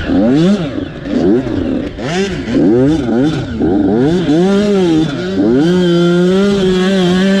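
Motocross dirt bike engines revving hard, the pitch climbing and dropping again and again as they accelerate and shift, then holding steady at high revs near the end.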